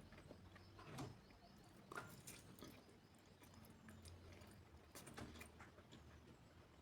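Faint mouth sounds of a person chewing food, with a few scattered soft clicks and smacks.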